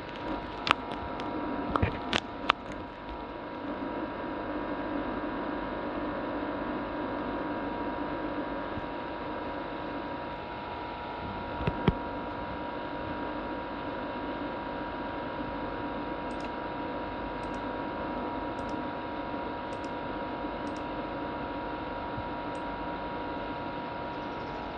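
Worn-out laptop CPU fan running with a steady whir and several steady tones, the vibration noise of a failing fan. A few sharp clicks come in the first three seconds and one more about twelve seconds in.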